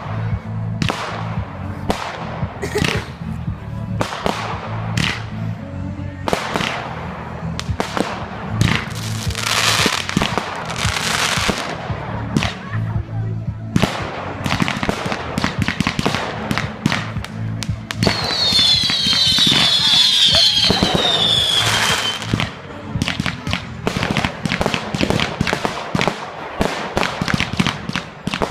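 Fireworks going off in quick succession, a steady run of sharp bangs and crackles. From about 18 s in, several whistling fireworks squeal together, falling in pitch, for about four seconds.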